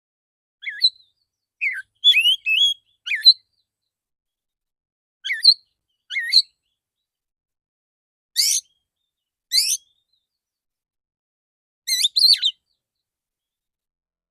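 Male Oriental magpie-robin (kacer) singing: short bursts of quick, clear whistled notes separated by pauses, with a pair of sharp, loud 'shot' notes about halfway through.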